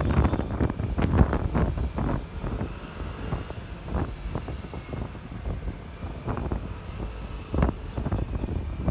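Wind buffeting a phone microphone in irregular gusts while riding a Honda ADV 150 scooter, with the scooter's engine and road noise running underneath and a faint thin whine.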